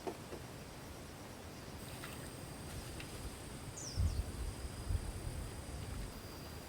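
Quiet outdoor ambience with a steady faint high tone and a brief chirp. A few low thumps and rumbles come about four to five seconds in and are the loudest thing heard.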